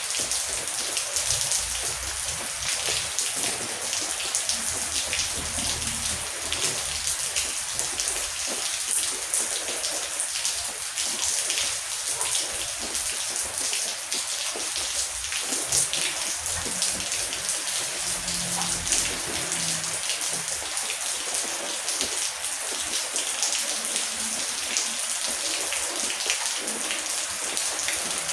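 Heavy rain falling steadily: an even hiss thick with the patter of countless individual drops.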